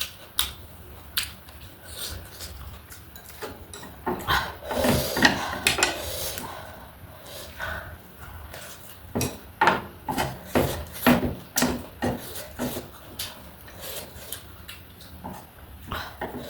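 Close-miked eating sounds: chewing and crunching with many sharp, irregular clicks, busier about four seconds in and again around ten seconds.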